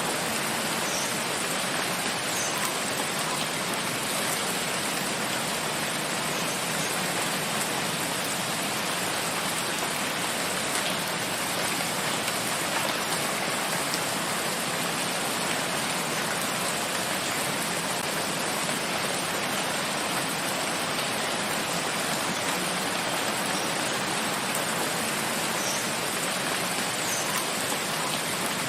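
Steady rain falling in a forest, an even hiss of drops with a few faint ticks of single drops.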